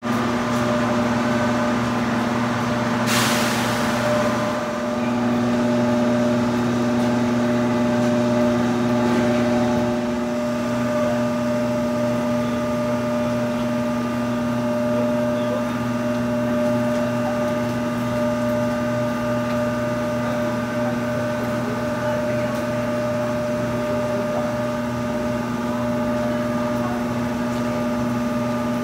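Steady electrical hum of KTX high-speed trains standing at the platform: several steady tones over a bed of noise. A short burst of air hiss comes about three seconds in.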